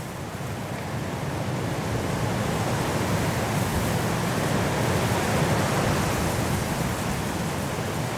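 Strong wind blowing through trees in a snowstorm, a steady rush that swells about a second in, peaks around the middle and eases a little near the end.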